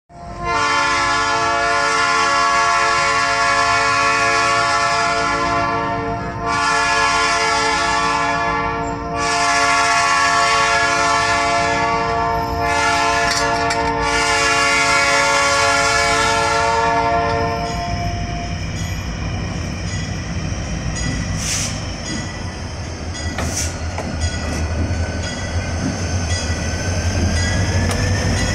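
Diesel locomotive air horn blowing long blasts, a chord of several notes, for about 18 seconds. It then stops and gives way to the low rumble of the moving train, with a couple of sharp clanks.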